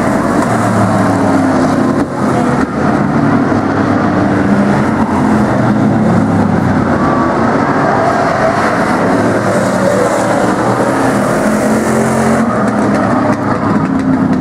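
Engines of several demo race cars and trucks running together on the track, a steady loud drone of overlapping engine notes.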